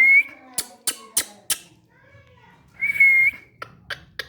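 Indian ringneck parakeet giving a short steady whistle, then a quick run of sharp, high clicking calls, about three a second. The pattern comes twice.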